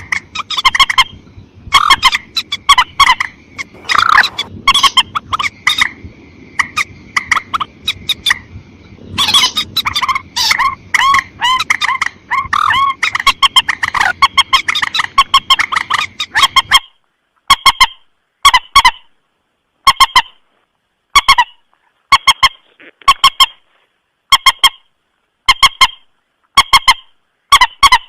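Mandar sawah (a rail) calling: a string of short, repeated calls, dense and overlapping at first. After about seventeen seconds the background noise drops out and the calls come singly at an even pace, about one a second. This is a recorded lure call for trapping the bird.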